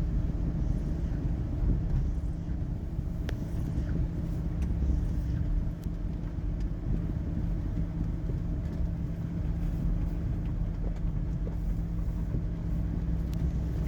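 Steady engine and road noise of a moving car, heard from inside the cabin, with a low, even rumble.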